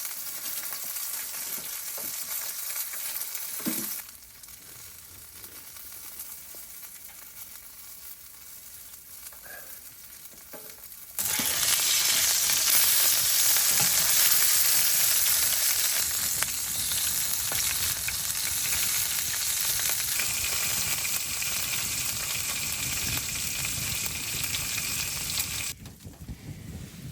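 Food sizzling and frying in a pan, a steady hiss that drops abruptly about four seconds in, comes back much louder about eleven seconds in, and falls away again near the end.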